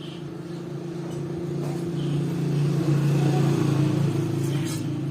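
A motor vehicle's engine passing by, a steady hum that grows louder to a peak about three seconds in and then fades.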